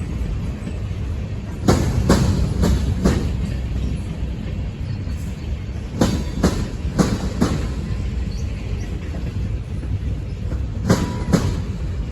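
Norfolk Southern freight cars rolling past over a steady low rumble, their wheels clicking over rail joints in clusters of about four clicks every four to five seconds.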